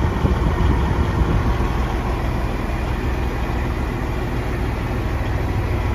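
Semi truck's Detroit Series 60 diesel engine running with a steady low rumble.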